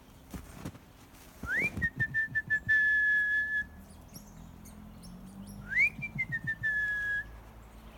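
Person whistling two calls, each a quick upward slide into a long, steady, high note, about four seconds apart. Faint knocks and rustles sound underneath.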